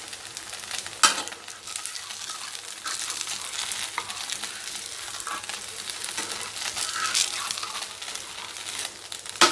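Thalipeeth sizzling in oil on a hot tawa, with a spatula scraping against the pan as it is worked under the flatbread to turn it. There is a sharp knock of the spatula about a second in and another near the end.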